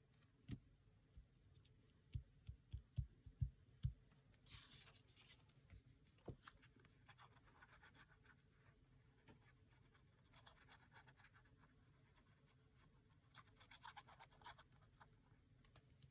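Quiet paper-crafting sounds at a desk: a run of soft taps and knocks on the work surface two to four seconds in, then a short scraping hiss of paper and scattered light scratching and rustling.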